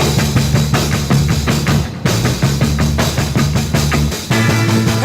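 1950s rock and roll band playing an instrumental passage between vocal lines: a drum kit beating a steady rhythm over low bass notes, with no singing.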